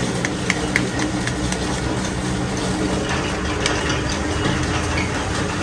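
A motor or engine running steadily, a low hum with light irregular clicks over it.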